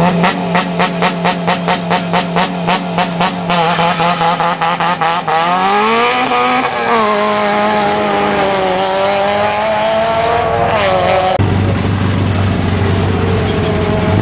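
Rally car engine held at high revs, stuttering evenly about six times a second on the rev limiter at the start line. It then revs up sharply as the car launches and pulls away, the engine note wavering as it goes. About three seconds before the end a deeper engine takes over, idling close by.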